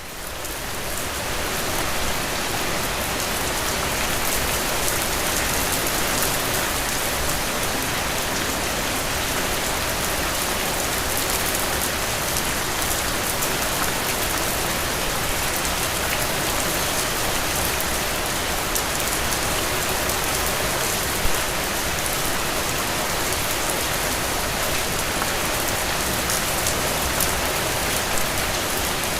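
Steady rain falling, a dense hiss of many drops hitting a surface, fading in over the first two seconds and then holding even. One brief louder tap stands out about two-thirds of the way through.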